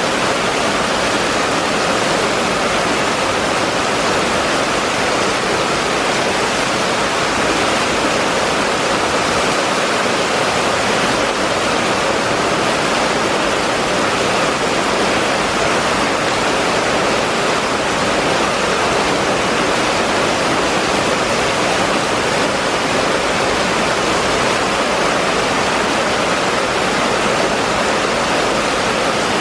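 Heavy rain pouring onto a wet street and its puddles: a steady, even rush of rain with no let-up.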